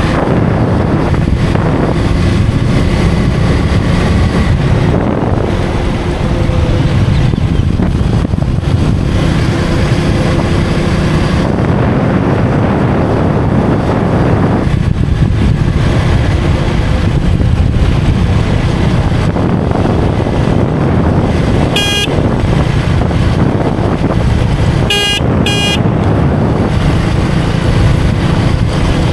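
KTM Duke 250 single-cylinder engine running at a steady cruise with wind and tyre rumble. A vehicle horn honks briefly about three quarters of the way in, then twice more a few seconds later.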